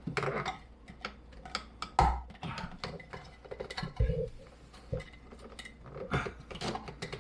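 Irregular clicks, taps and knocks of small hard parts and tools being handled, with a few louder knocks about two, four and five seconds in.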